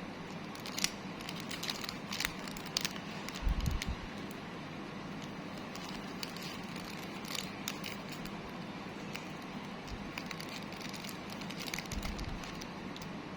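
Handling noise from unboxing: scattered small crinkles and clicks of packaging being handled, with a few soft bumps, over a steady background hiss.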